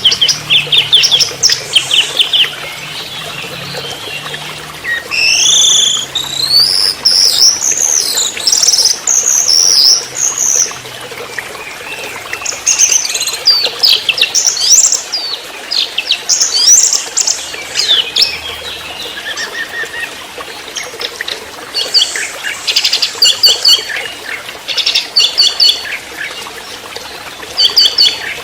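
Young orange-headed thrush (anis merah) singing a loud, varied song in bursts: quick trills, chattering notes and rising whistled phrases.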